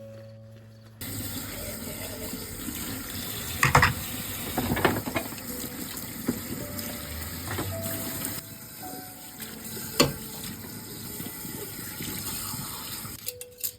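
Water running from a tap, switched on about a second in and off near the end, with a few clinks and knocks of things being handled under it.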